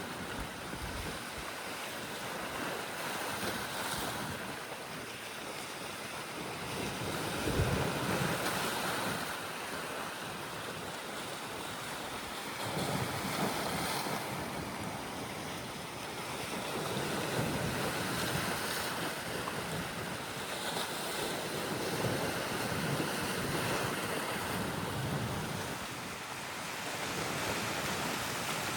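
Red Sea waves washing in and out, a steady rush that swells every four to five seconds as each wave comes in.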